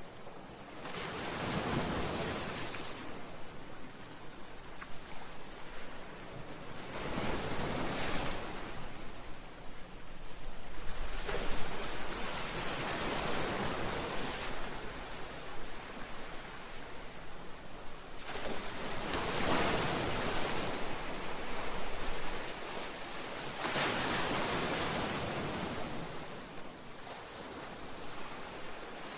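Sea waves breaking against a seawall and breakwater rocks, each wave rising into a rushing wash of spray and foam, then falling back, with a new surge every few seconds. The sharpest crash comes about halfway through.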